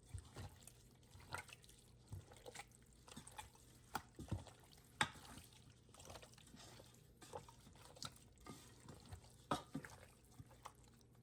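Faint, irregular drip-like ticks and clicks, a dozen or so scattered unevenly over a quiet background.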